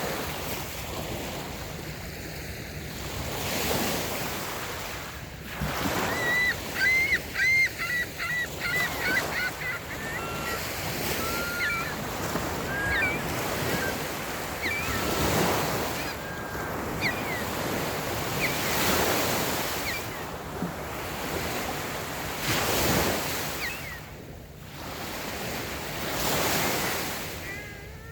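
Small waves washing up on a sandy beach, swelling and falling every few seconds. About six seconds in, a bird gives a quick run of short, high calls, with a few more scattered calls after it.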